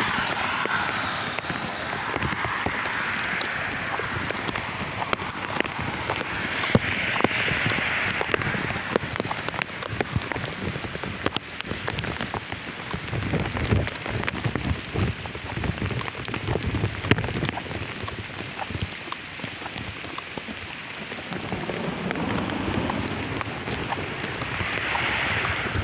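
Steady rain shower falling, with many individual raindrops ticking sharply close by over an even hiss.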